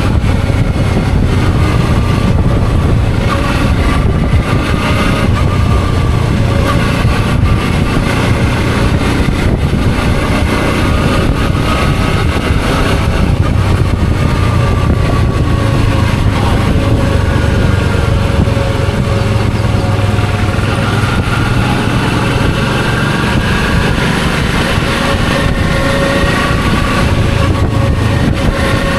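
Suzuki V-Strom 650's 645 cc V-twin engine running steadily while riding, its pitch rising and falling gently with speed, over a haze of road and wind noise.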